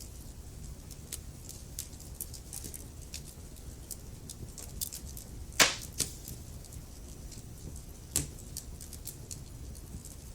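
Wood fire burning in a fireplace, crackling with frequent small sharp snaps over a low steady rumble. One loud pop comes about halfway through, and another pop about eight seconds in.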